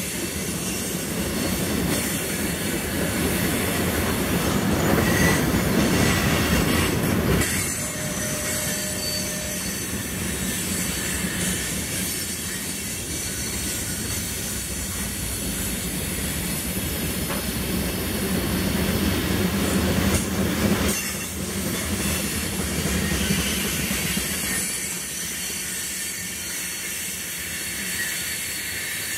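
CSX freight train of tank cars and covered hoppers rolling past close by, a steady rumble of steel wheels on rail with a couple of short wheel squeals. The sound drops off near the end as the last car goes by.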